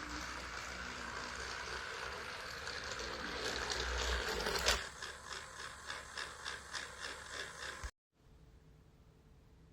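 Small motorized toy train engine running, its gearbox whirring, then a sharp click followed by rhythmic clicking about three times a second. The sound cuts off abruptly near the end, leaving faint room tone.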